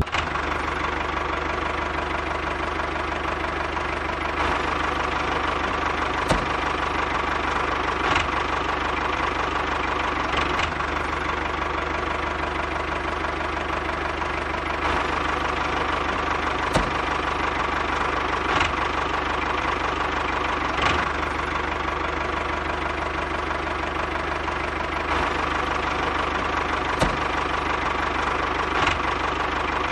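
Small motor in a model tractor running steadily and driving a miniature water pump through a shaft, a constant whirring hum broken by a few scattered clicks.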